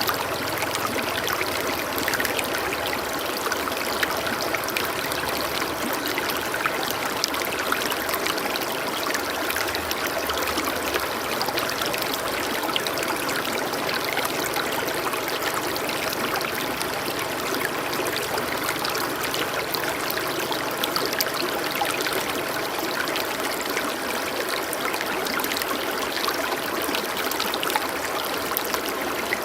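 Water of a stream flowing and trickling steadily, with many small splashes and no music.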